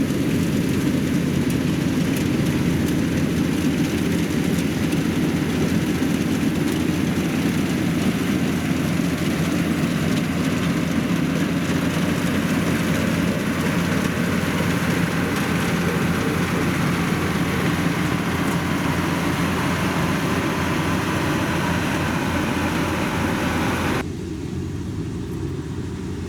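Rice combine harvester running steadily with a constant engine hum as it works the field. Near the end the sound drops abruptly and turns duller.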